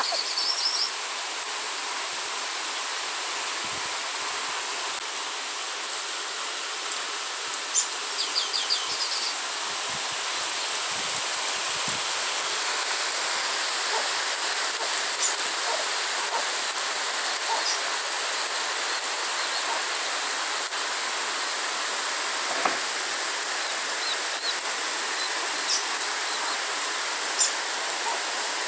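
Steady rain falling, an even hiss. A bird gives a short trilling call at the start and again about eight seconds in.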